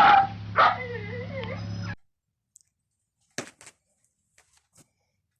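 A dog whining in a high, wavering pitch for about a second, after a short sharp cry, over a steady low engine hum. The sound cuts off abruptly about two seconds in, leaving near silence with a few faint clicks.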